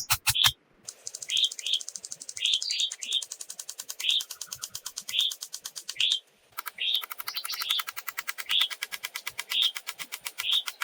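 Forest wildlife: a fast, even pulsing trill with short, high chirps repeating about once a second. The sound drops out briefly twice.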